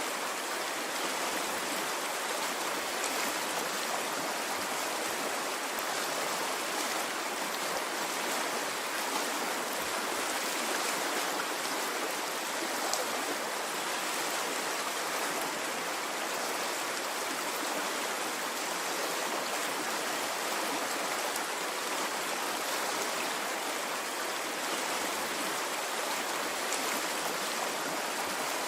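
A stream of running water flowing and trickling steadily, a continuous even rush with faint splashes and no rise and fall of waves.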